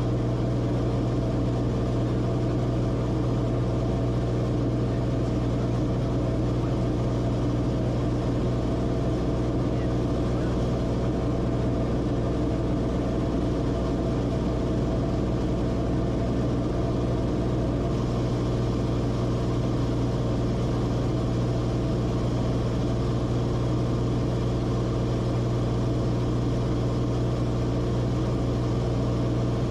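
Steady, unchanging drone of the Cessna Corvalis TTX's turbocharged six-cylinder engine and propeller, holding one low pitch throughout.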